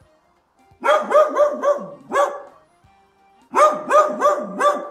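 Dog barking in quick, high yapping runs: about six barks starting a second in, then after a pause another run of about six.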